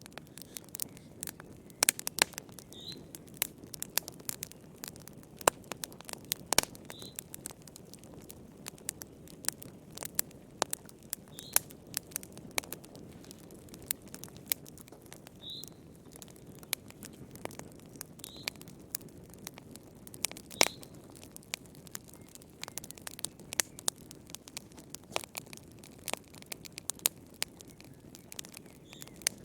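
Wood fire crackling in a fireplace: irregular sharp pops and snaps over the steady low rush of the flames.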